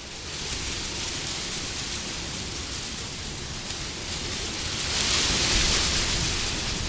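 Steady rushing wind that swells into a stronger gust about five seconds in, then eases.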